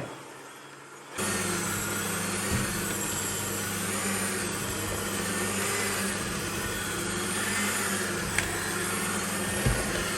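Electric mixer motor running steadily as it mixes a yeast bread dough, its pitch wavering slightly under the load. It starts suddenly about a second in.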